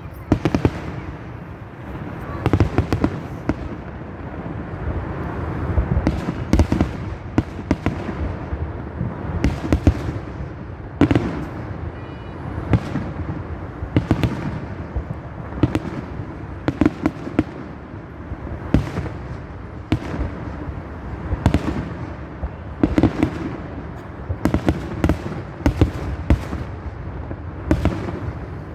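Fireworks salute: aerial shells bursting in sharp bangs at irregular intervals, some in quick clusters, over a continuous rumble of echoing booms.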